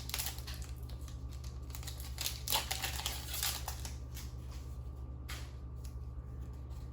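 Booster-pack trading cards being handled and flicked through by hand: a quick run of light card clicks and snaps, dense for the first few seconds and then only a few scattered ones, over a steady low hum.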